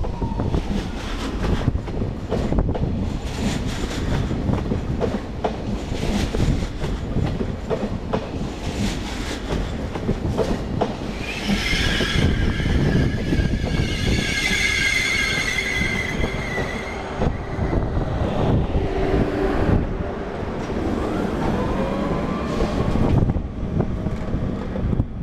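SNCF TGV high-speed trainset rolling slowly past along the platform, its wheels clicking over rail joints and points. A high wheel squeal rises for several seconds about halfway through, with fainter squealing again towards the end.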